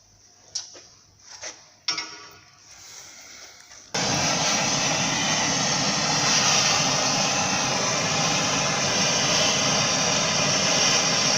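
A few light clicks and knocks, then about four seconds in a gas blowtorch lights and runs with a steady, loud hiss. The flame is heating seized suspension-arm bolts so they can be undone.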